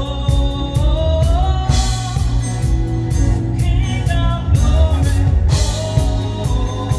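Live praise music: a band with a drum kit playing a quick, steady beat under a sung melody.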